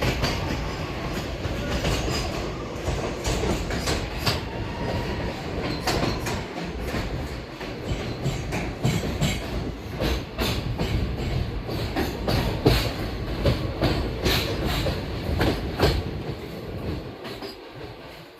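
Passenger train running on the track: a steady rumble of the coaches with many sharp clicks from the wheels passing over rail joints, easing off a little near the end.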